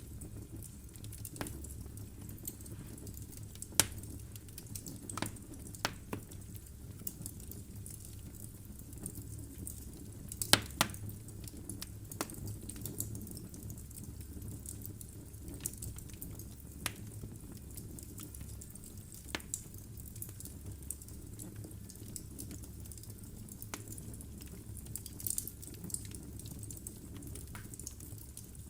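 Wood fire burning in a fireplace: a steady low rumble of flames with scattered sharp crackles and pops from the burning logs, the loudest pops about 4 and 11 seconds in.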